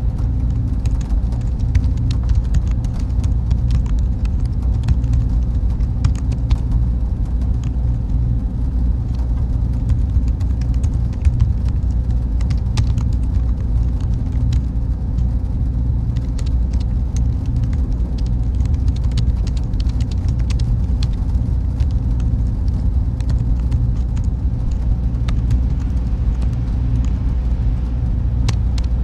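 Server room ambience: a steady low hum of machine cooling fans with a faint constant tone, and scattered small clicks throughout.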